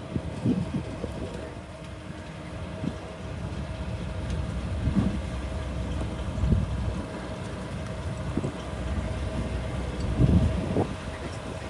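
Komatsu D37P crawler bulldozer's diesel engine running steadily under work, with a few heavy low thumps from the machine as it moves.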